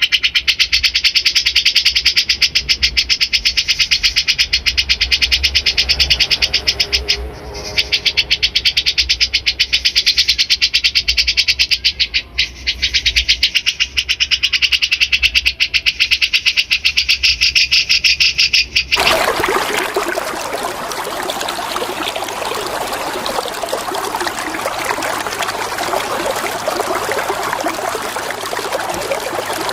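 Recorded songbird song: a dense run of high chattering notes repeated many times a second, with two short breaks. About two-thirds through it cuts off abruptly to the steady sound of flowing water.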